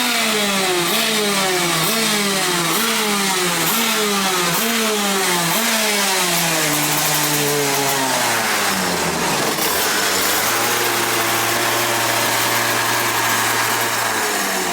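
A vehicle engine revved in quick repeated blips, its pitch jumping up and sagging about every 0.7 seconds. About eight seconds in the blipping stops and the engine drops to a steady, lower-pitched run.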